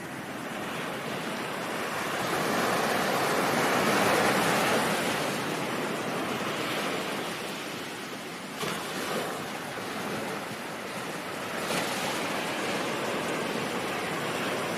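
Ocean surf washing in: a steady hiss that swells to a peak about four seconds in and then eases, with smaller surges later on.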